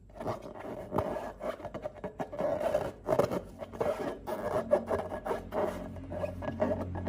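Irregular rubbing and scraping handling noises, with scattered sharp clicks, starting suddenly.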